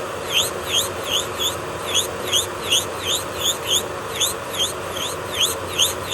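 Electric nail drill (e-file) running steadily, with short, high-pitched squeaky chirps repeating about two to three times a second.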